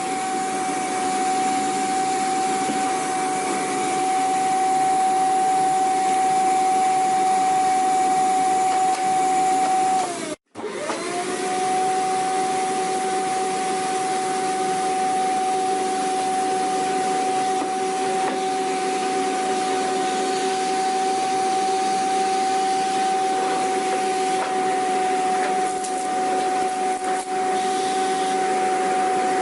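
Vacuum cleaner running steadily with a high motor whine over a rushing airflow hiss. About ten seconds in it breaks off for a split second, the whine sagging just before and climbing back just after.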